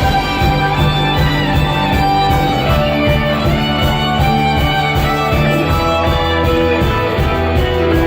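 Band playing an instrumental passage with guitars over a steady beat.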